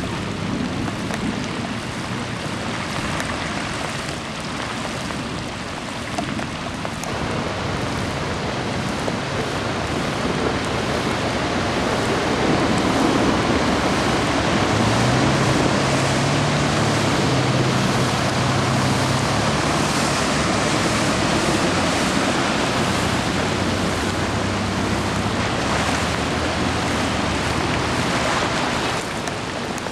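Heavy downpour on a flooded street: a steady hiss of rain and rushing floodwater. Around the middle a car's engine hums low under it as the car pushes through the deep water.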